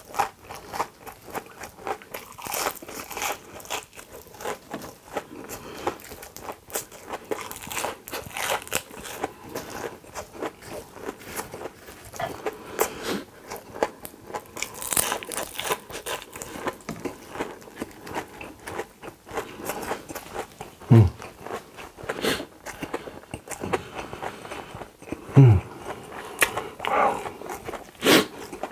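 Crisp fried coconut shrimp being bitten and chewed close to the microphone: a run of crunches and crackles. Twice late on there is a short low sound that drops in pitch.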